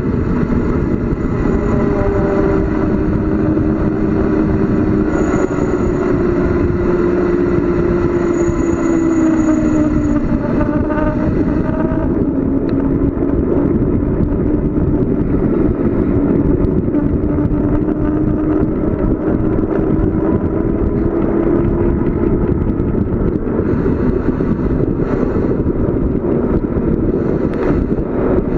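Loud, steady rush of wind and road noise on the camera of a bicycle coasting downhill, with a faint humming tone that slowly drifts down and back up in pitch.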